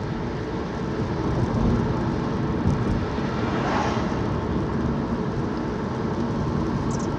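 Car driving, heard from inside the cabin: steady engine and road rumble, with a brief hiss about midway.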